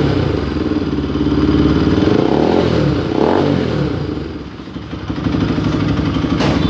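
Bajaj Pulsar RS200 motorcycle's single-cylinder engine and exhaust running and being revved, the pitch rising and falling a couple of times, easing off about four seconds in and picking up again. A sharp knock near the end.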